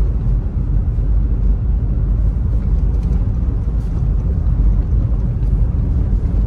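Steady low rumble of a car on the move, engine and road noise with no change in level.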